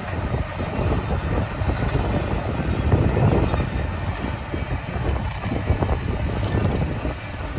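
Double-stack container train rolling past at close range: the steel wheels on the rails and the passing container cars make a steady, deep rumble.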